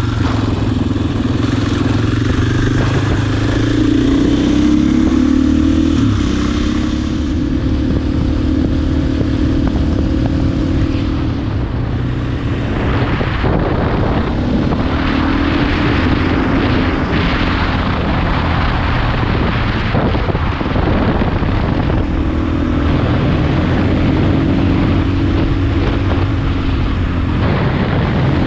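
Husqvarna enduro dirt bike engine running under way, its note rising and falling over and over as the throttle opens and closes through the gears, with wind rushing over the microphone.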